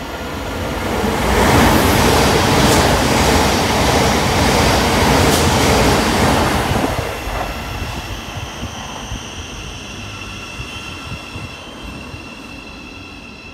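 Train passing at speed on the fast line through a station: a loud rush of wheels on rail and air builds up, holds for about five seconds with a couple of sharp clicks, then fades. After it, a quieter steady whine and rumble from a second train running on the far line.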